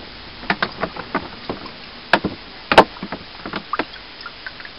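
Sharpening stone being put back into its water and moved about, giving irregular wet clicks and knocks, the sharpest two a little after two seconds in and just under three seconds in. The soak clears the swarf from the stone's grain.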